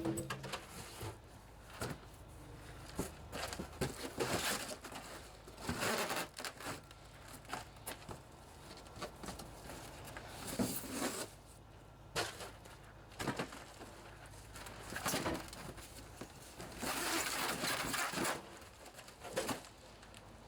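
Unpacking noises: cardboard and packing material rustled and scraped in irregular bursts, with scattered knocks and clicks as the crate is opened.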